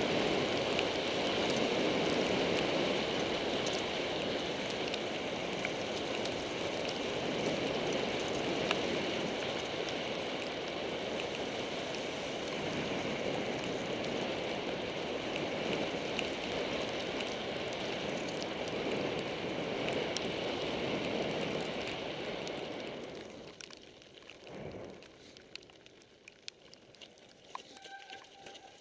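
Mountain bike riding down a wet trail in the rain: a steady rush of tyre and wind noise with scattered clicks and rattles. About three-quarters of the way through it quickly dies down to quiet patter and small ticks.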